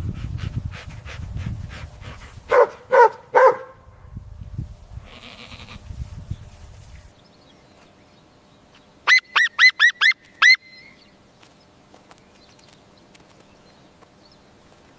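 Farm animals calling: low grunting, then three short bleating calls, and later a run of five quick high-pitched calls.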